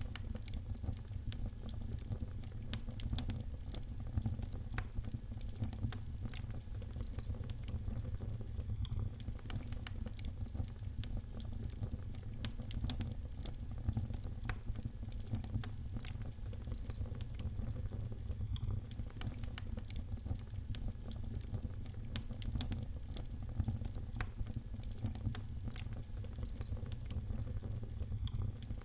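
Wood fire crackling in a fireplace: frequent irregular sharp pops and crackles over a steady low rumble.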